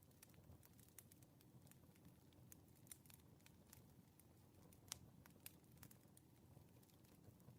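Faint crackling of a wood fire: irregular sharp pops and snaps over a low, soft rumble, with one louder pop about five seconds in.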